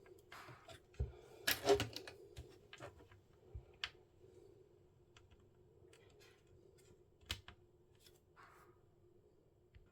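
Light plastic clicks and taps of small broken plastic pieces from a cassette recorder being handled and set down, with a brief cluster of louder clatter about a second and a half in and a few single clicks after.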